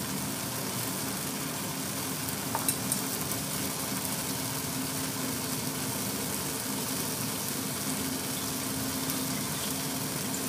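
Tomatoes and beaten eggs sizzling steadily in oil in a wok, the eggs left to set without stirring. Two short clicks just under three seconds in.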